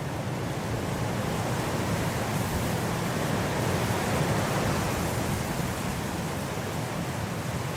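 Blizzard wind blowing in a steady rushing hiss, swelling in a gust through the middle and easing again.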